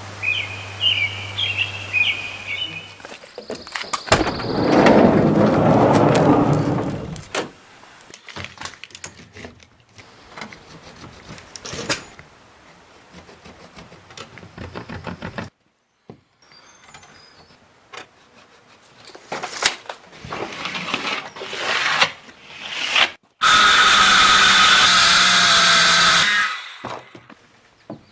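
Power drill running in several separate spells, the loudest near the end, with clicks and knocks of tools and wood panels being handled in between.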